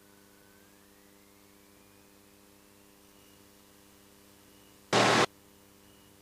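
Faint hiss and hum of an aircraft's headset and radio audio feed, with a faint whine rising in pitch over the first few seconds. About five seconds in comes a single short, loud burst of static, like a radio or intercom keying click.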